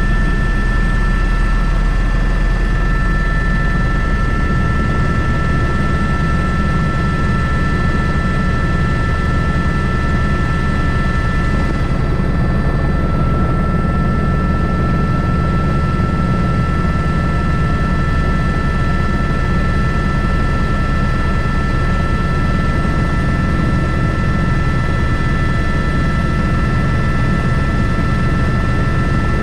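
Airbus H125 (AS350 B3) single-turbine helicopter running in flight, heard from the cockpit: a steady turbine whine made of several high tones over the fast low beat of the main rotor.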